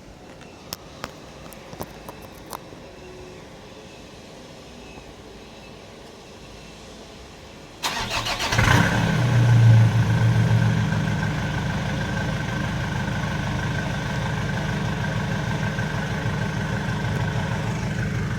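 A few light clicks, then about eight seconds in a Nissan Navara's turbodiesel engine cranks, catches with a short surge and settles into a steady idle. Its exhaust runs a straight pipe in place of the catalytic converter and a lightweight SUS304 stainless muffler with no fibreglass packing.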